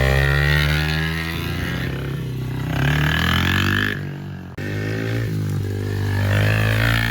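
Yamaha TT-R50's small four-stroke single-cylinder engine running as the dirt bike is ridden, its pitch rising and falling with the throttle. The sound drops out briefly just past halfway.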